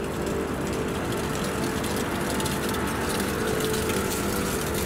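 Northern electric multiple unit running past the platform: a steady rumble of wheels on rail with a hum, and a faint electric whine that rises in pitch in the second half.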